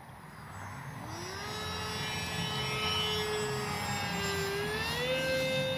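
HobbyZone AeroScout RC plane's electric motor and pusher propeller whining as the throttle is opened after a glide. The pitch rises about a second in, holds, then steps up again around four and a half seconds.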